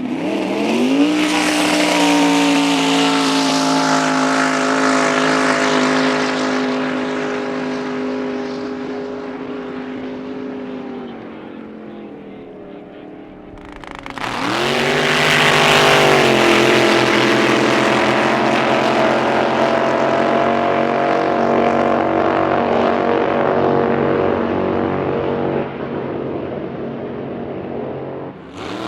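Racing drag boat engines launching in two separate runs, one at the start and one about halfway through. Each engine's pitch sweeps sharply up, holds, then sinks slowly and fades as the boat runs away down the course.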